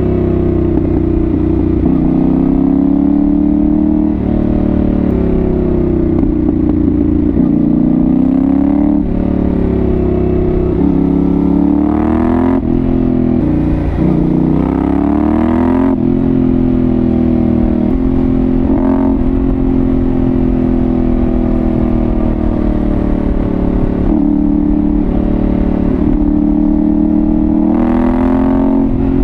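A 2022 Yamaha Ténéré 700's 689 cc CP2 parallel-twin engine, heard through a Dominator GP1 aftermarket exhaust while riding. The engine note rises and falls with throttle and gear changes, dipping sharply about halfway through and then climbing again.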